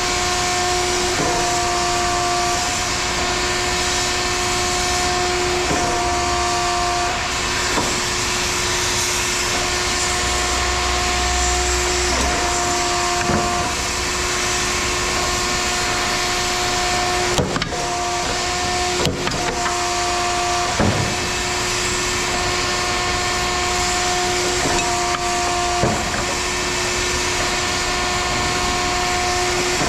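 A machine running steadily with a constant whine. The whine breaks off briefly every few seconds, and a few sharp clicks come about two-thirds of the way through.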